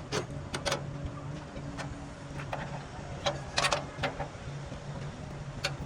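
Workshop noise: a steady low mechanical hum with scattered sharp clicks and light knocks of tools on metal, a quick cluster of them a little past halfway.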